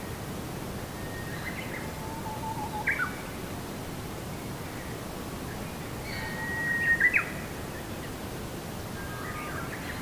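Birds singing short chirping phrases over a steady background rush of noise. The loudest calls come about three seconds in and about seven seconds in.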